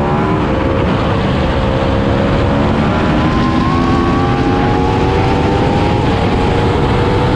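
Aprilia RSV4 superbike's V4 engine pulling under load just after a gear change, its pitch rising slowly and steadily, over a rush of wind noise. It stops abruptly near the end.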